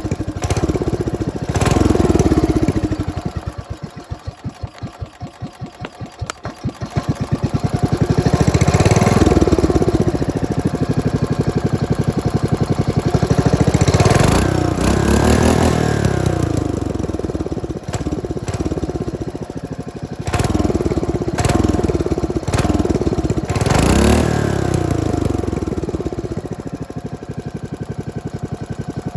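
Modified 500cc Briggs and Stratton Model 31 engine, ungoverned, with dual exhaust and a flat slide carburettor, running and being revved up and down several times. A few seconds in it drops to a slow idle with separate firing beats, then climbs again.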